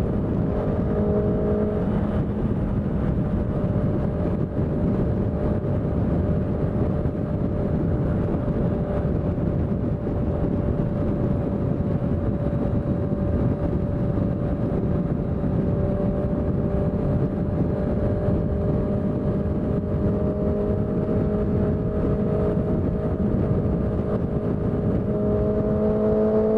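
Honda CBR650F's inline-four engine running at a steady, fairly high engine speed while riding, with a dense rushing noise underneath. Its pitch eases down slightly through the middle and starts to climb again near the end.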